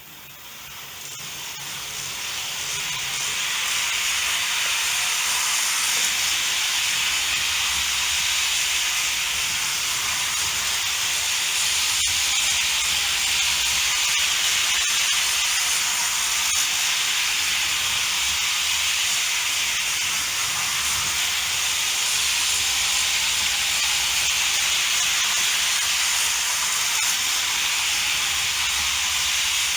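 Märklin HO model freight train, an NS class 700 diesel switcher with three wagons, running on C Track: a steady hissing rush with a faint low rumble that swells over the first few seconds and then holds even.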